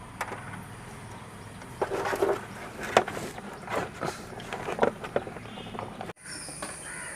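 Handling noises from wiring being fed through an auto rickshaw's dashboard: irregular light clicks, knocks and rustles of wire and plastic parts. About six seconds in the sound cuts off, and a steady high hiss follows.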